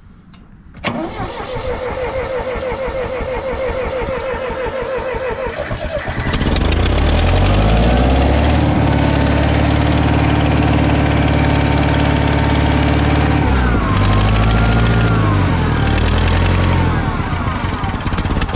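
International 2400B tractor's gasoline engine cranked on the starter for about five seconds, then catching and starting on freshly primed fuel after sitting unused. It then runs steadily, and its speed drops and picks back up a couple of times in the last few seconds.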